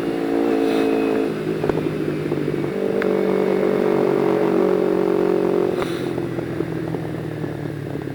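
Motorcycle engine running while riding, its pitch stepping down about a second in and again near six seconds, then holding steady between.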